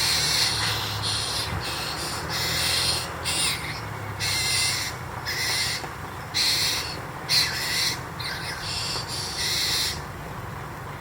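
Harsh, raspy bird calls in about a dozen short bursts, one after another, then stopping.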